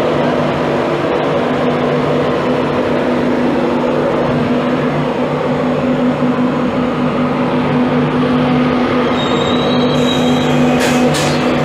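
InterCity 225 train hauled by a Class 91 electric locomotive moving slowly through the station, with a steady electric hum and rail running noise. Brief high-pitched wheel or brake squeals come near the end.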